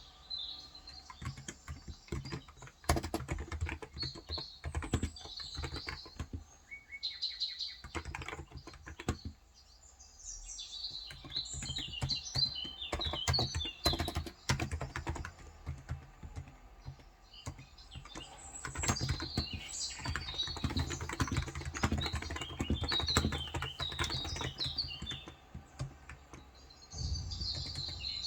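Typing in runs of quick keystrokes on a Cox Endeavor electro-capacitive (non-contact) tenkeyless keyboard with 35 g switches, with pauses between the runs. Birds chirp throughout.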